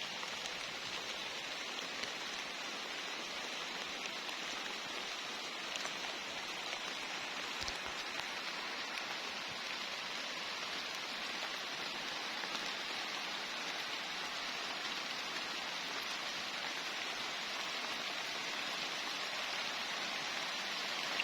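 Steady rain falling on garden plants and the ground, an even hiss with a few faint drop ticks.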